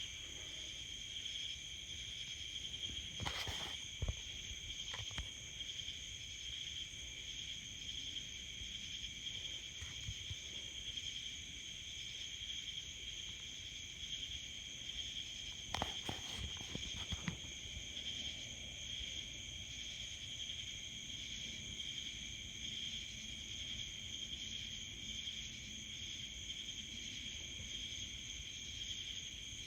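Steady, high-pitched chorus of insects singing, with no break. A few brief knocks come a few seconds in and again about halfway through.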